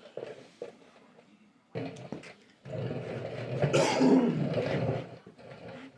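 A person coughing, loudest from about three to five seconds in, after a few shorter sounds.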